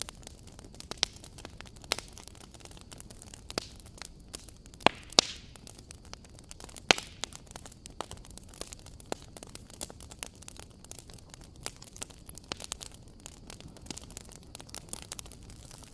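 Wood fire crackling in a fireplace: irregular sharp pops and snaps over a low steady hiss, with a few louder pops about five and seven seconds in.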